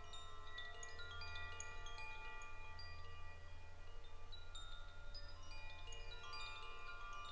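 Wind chimes ringing, many bright overlapping tones sounding and fading, starting abruptly out of silence, over a low steady hum.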